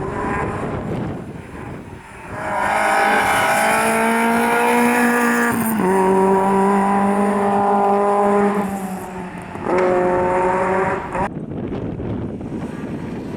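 Rally car engine at full throttle: revs climb, drop with a gearshift about halfway through and hold high. After a short lift it comes back on hard, then the throttle is cut suddenly near the end.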